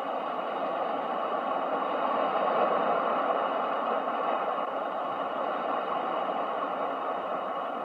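Ocean waves washing in a continuous, even hiss, swelling gently to a peak a little under three seconds in and then easing off.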